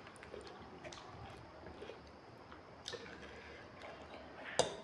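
Faint chewing of spicy instant ramen noodles, with a few short clicks of metal forks against ceramic plates, the loudest near the end.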